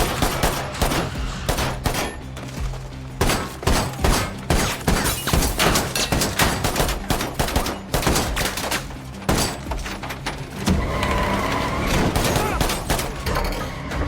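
A volley of gunfire in a film soundtrack, many shots in quick succession over the first ten seconds or so, with dramatic score music and its steady low notes underneath. In the last few seconds the shots thin out and a wavering higher tone takes over.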